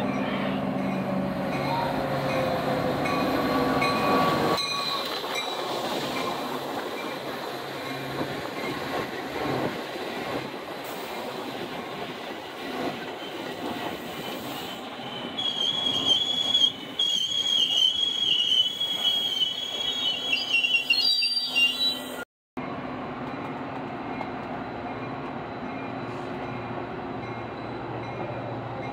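Metra diesel-hauled commuter train running past close by. The locomotive's engine tone falls as it passes in the first few seconds, then the stainless bilevel cars roll by. From about 15 s a high metallic wheel-and-brake squeal rises and falls until an abrupt cut, after which steadier, quieter train noise continues.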